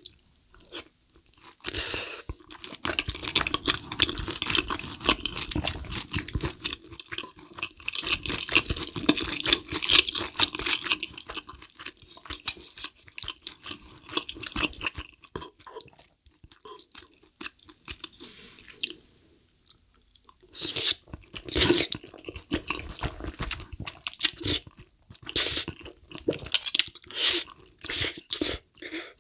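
Close-miked chewing and wet mouth sounds of eating thick, creamy rose-sauce fettuccine: a dense run of irregular squishy smacks and clicks, with a few louder ones in the second half.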